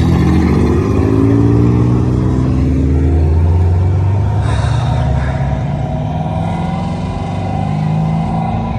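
A car engine running loud, its pitch rising a little and then sinking slowly over the first few seconds, with another engine note climbing near the end.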